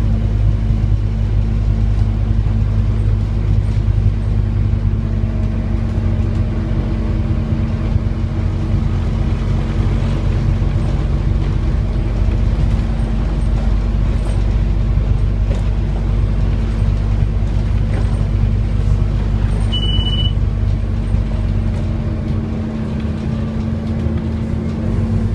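Scania N230UD double-decker bus engine running steadily, a low rumble with a constant hum, and a short high beep about twenty seconds in. The deepest rumble eases off near the end.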